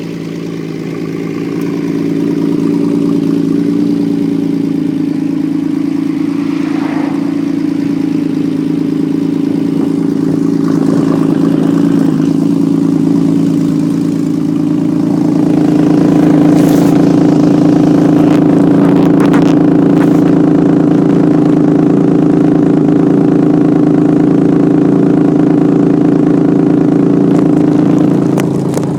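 Honda CBX motorcycle engine running steadily. It grows louder about two seconds in and again about halfway through, then holds at the higher level.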